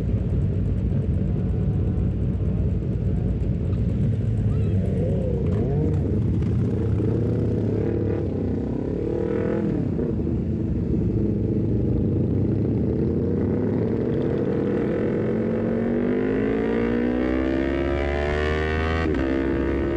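Honda CBR250RR with an aftermarket Leovince GP Corsa exhaust, riding under power: the engine note holds steady, then the revs climb steadily through the second half and drop sharply near the end on a quick upshift.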